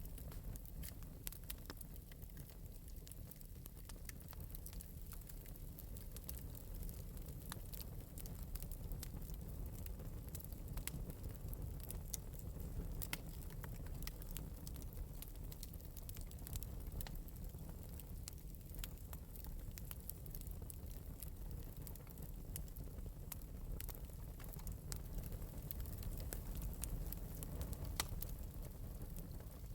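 Wood fire in an open metal fireplace burning steadily, with a low rumble of flame and frequent light, scattered crackles and pops.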